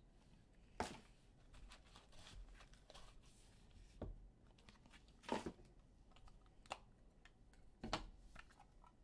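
Faint handling sounds of trading cards and their packaging being opened and sorted: a few separate soft clicks and taps with light rustling between them.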